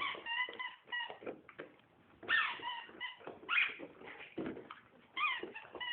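A squeaky rubber hedgehog toy squeaked over and over as a dog bites and squeezes it. The squeaks are short and high, some held level and some falling in pitch as the air runs out.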